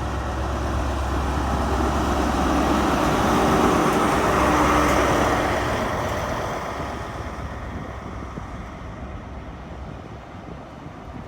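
Diesel engine of an HST's Class 43 power car running as the train moves past, growing louder to a peak about four seconds in and then fading away.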